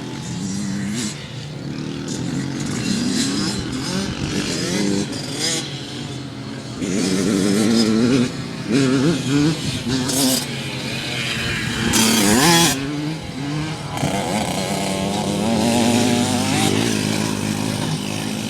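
Small motocross dirt bike engines revving up and down as they ride, the pitch rising and falling repeatedly. A brief loud hiss comes about twelve seconds in.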